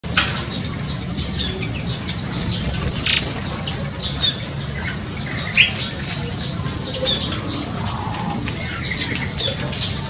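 Small birds chirping, with many short, high calls scattered throughout over a steady low hum.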